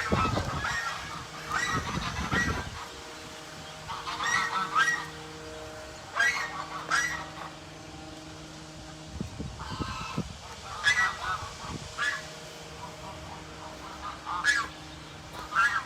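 Domestic waterfowl giving short repeated calls, about a dozen spread through the stretch, over a faint steady low hum.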